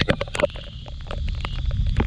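Kymco Like 125 scooter riding in the rain: a steady low rumble of the engine and wind, broken by many sharp, irregular ticks of raindrops close to the microphone.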